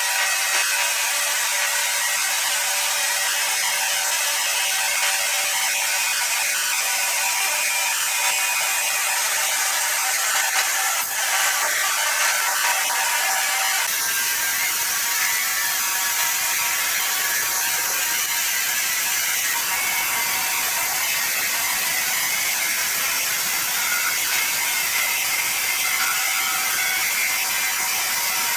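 Sawmill machinery running, a dense, steady, high-pitched mechanical noise with several held tones; about halfway through a lower rumble joins in.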